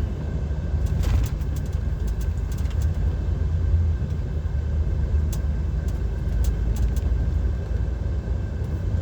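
DAF XF 530 lorry heard from inside the cab while driving slowly: its PACCAR MX-13 straight-six diesel and the road make a steady low rumble, with a few faint scattered clicks.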